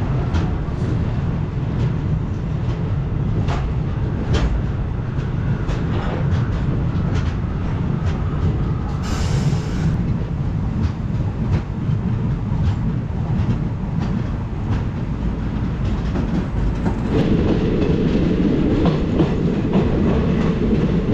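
Kamban Express passenger train running through a station at speed, heard from an open coach doorway: steady rumble of the wheels on the rails with scattered clicks from rail joints and points. A brief hiss comes about nine seconds in, and the rumble gets louder from about seventeen seconds on.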